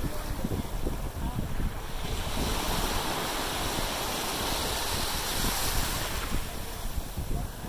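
Wind buffeting the microphone over the steady sound of surf on the beach, with a wave washing in, swelling and then fading, in the middle.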